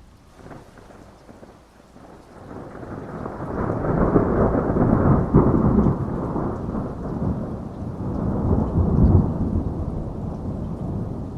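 Rolling thunder over steady rain. A low rumble builds from about two seconds in, is loudest around four to six seconds, swells again near nine seconds, then slowly eases off.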